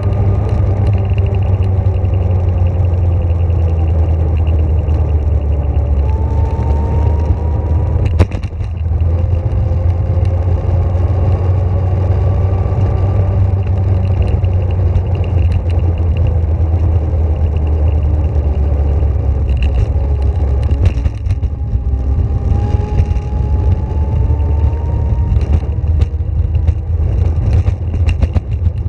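Steady low rumble of a vehicle in motion, with a motor whine that rises in pitch twice, about six and about twenty-one seconds in. A sharp knock comes about eight seconds in.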